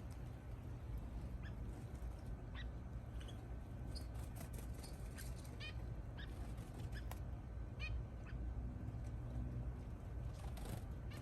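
Small finches chirping: short, scattered high chirps, several a second at times, over a steady low hum.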